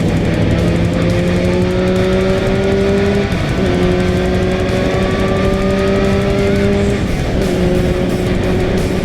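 Motorcycle engine pulling hard through the gears, its pitch climbing steadily and dropping at two upshifts, about three and a half and seven seconds in, over wind rush.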